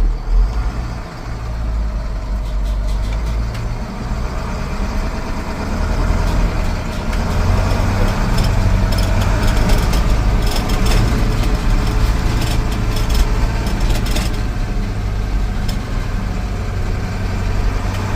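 Cummins diesel engine of a 1970 International Fleetstar truck running as the truck is driven, getting louder about six seconds in and easing off again near the end, with rattling clicks over it while it is loudest.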